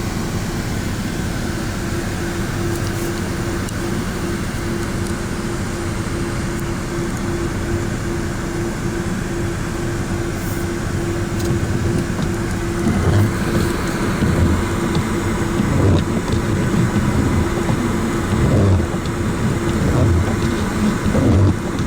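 Ryko Radius in-bay automatic car wash running: a steady pump hum over rushing spray noise. From about halfway through, irregular heavier surges come in.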